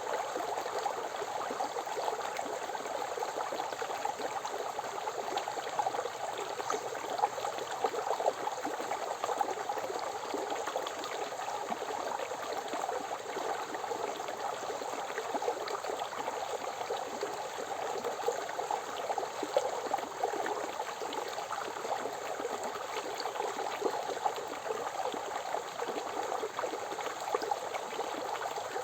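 Forest river flowing steadily over rocks, a constant rushing and babbling of water.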